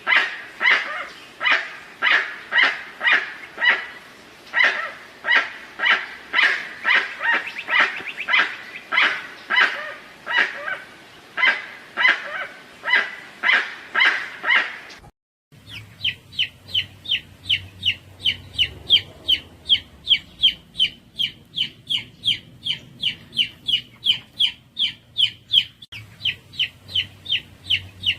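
Two runs of repeated animal calls. First, a steady series of calls at about two a second. After a brief break about halfway through, a different, faster series of higher-pitched calls follows.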